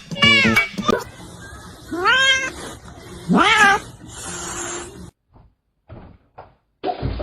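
A cat meowing twice, two drawn-out calls that rise in pitch, about two seconds and three and a half seconds in.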